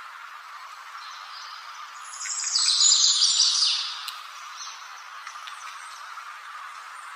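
A bird calling: a loud burst of rapid, high-pitched chirping that starts about two seconds in and lasts about a second and a half, over a steady background hiss.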